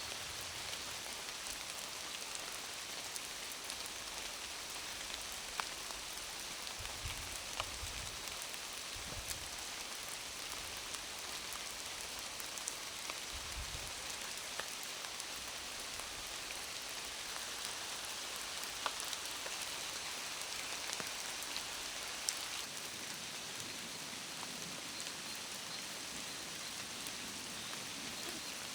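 Heavy rain falling steadily, a constant hiss with scattered sharper ticks of individual drops.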